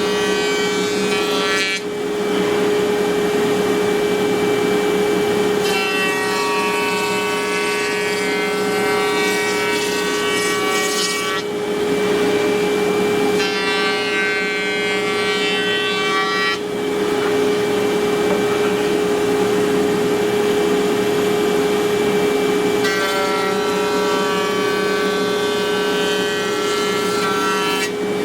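CNC router spindle running with a steady whine while the bit cuts wood. A higher, layered cutting whine comes in three times for a few seconds each as the bit works into the material.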